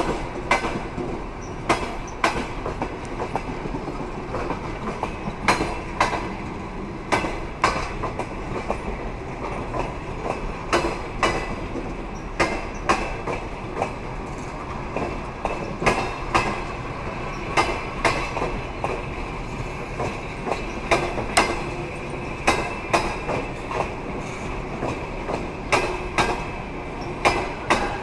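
Railway carriages rolling over rail joints: a steady rumble with rhythmic clickety-clack, the wheels clicking in quick pairs as each bogie crosses a joint.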